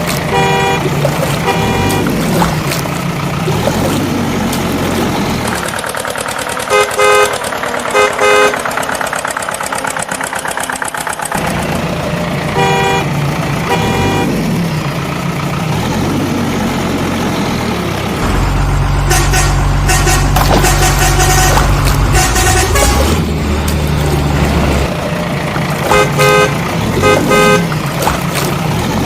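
Cartoon vehicle sound effects: an engine running with short horn toots sounding again and again, several times in quick runs.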